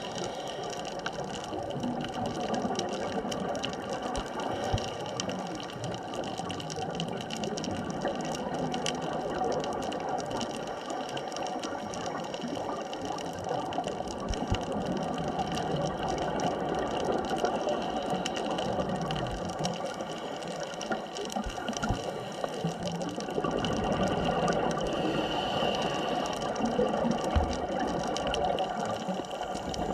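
Underwater ambience picked up by a camera in its housing: a steady watery hiss with several constant tones running through it, growing a little louder about three quarters of the way in.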